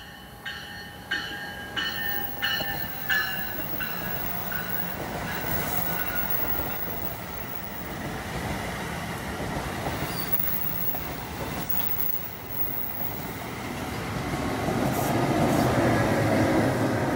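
NJ Transit push-pull train of Multilevel coaches passing at speed without stopping. Its bell rings about every half second for the first three seconds, dropping slightly in pitch as the cab car goes by. Then comes a steady rush of wheels and cars, loudest near the end as the ALP-46A electric locomotive pushing at the rear goes past.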